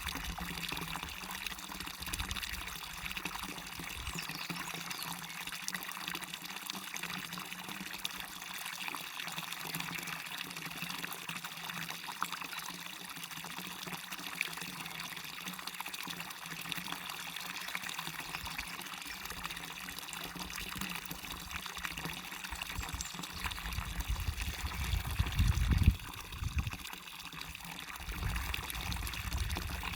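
Water from a waterfall pouring and splashing steadily, an even rushing hiss. Near the end a low rumble swells up and stops abruptly.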